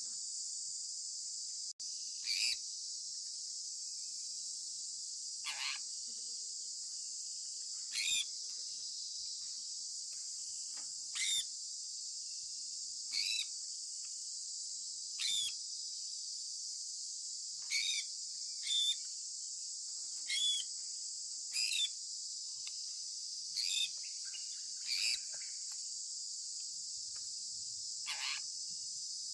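Sun conure parrot giving short chirps every two or three seconds, each a quick downward-sliding note, about a dozen in all, over a steady high-pitched hiss.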